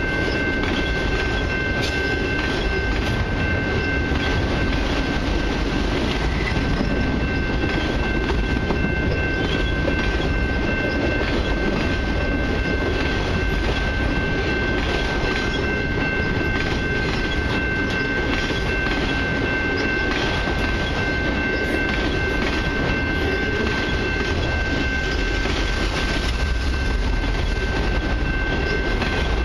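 Long freight train of autorack cars rolling past: a steady rumble of steel wheels on the rails with scattered clicks as the wheels cross the rail joints, and a steady high-pitched tone above it.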